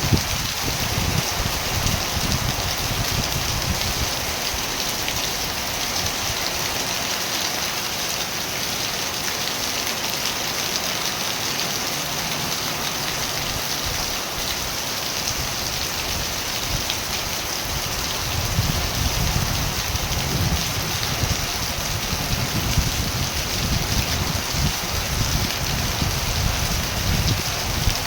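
Steady rain falling, an even hiss with the patter of drops on surfaces. A low rumble underneath fades about six seconds in and comes back in the second half.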